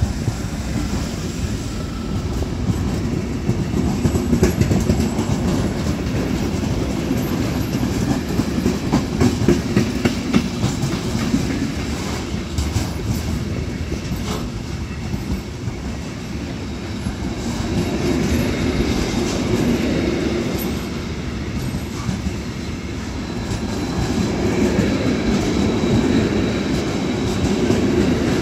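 Container freight wagons rolling past on the track, their wheels clattering in a steady rumble with many sharp clicks over the rail joints.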